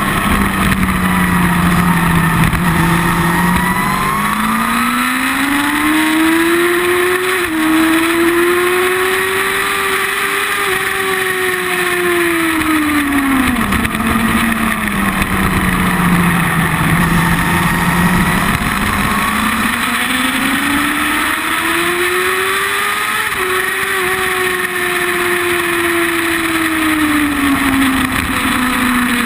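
Sport motorcycle engine heard close to its exhaust silencer, the engine note climbing and then falling twice as the bike accelerates and slows on a race track, with a small jump in pitch near each peak.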